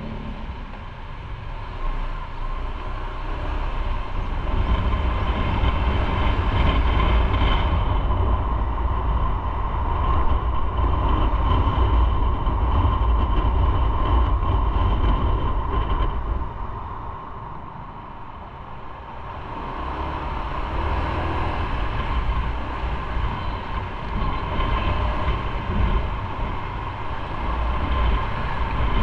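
Motorcycle riding at speed: a heavy wind rumble and engine and road noise. It quietens for a few seconds about two-thirds of the way through, then builds again.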